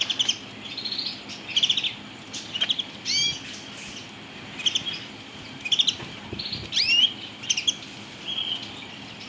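Norwegian crest canaries calling: short bursts of rapid chirps and a few rising whistled call notes, repeated every second or so.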